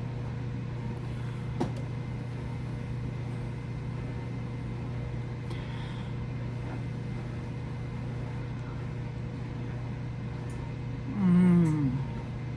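Steady low electrical hum in a small room, with a faint click about a second and a half in. Near the end a woman gives a short hum of enjoyment, 'mmm', falling in pitch, while tasting food.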